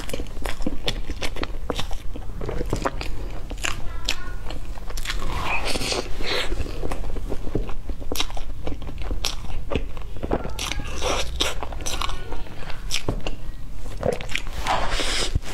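Close-miked biting and chewing of a chocolate-coated mousse cake roll: the thin chocolate shell crunches and crackles under the teeth, mixed with soft chewing and many small mouth clicks.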